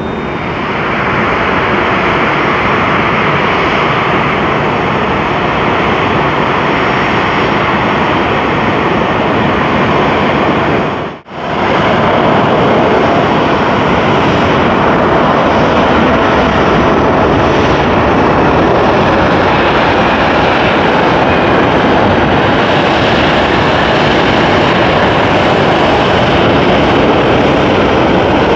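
Loud, steady jet noise from a Boeing 747-8i's four GEnx-2B engines as it comes in to land, with a sudden brief drop-out about eleven seconds in.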